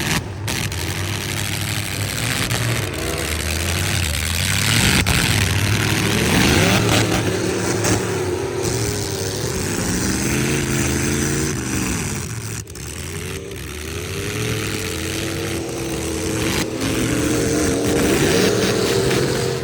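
Pickup truck engines revving hard in a demolition derby, their pitch climbing and falling again and again as the trucks accelerate and back off, with a few sharp bangs from hits.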